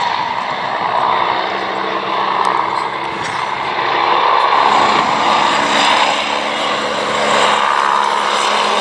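Aircraft engine running steadily as a plane flies, with a steady engine tone that grows a little louder about halfway through.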